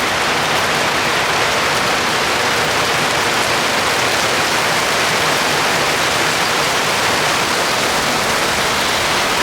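Heavy typhoon rain pouring down, a dense, steady hiss.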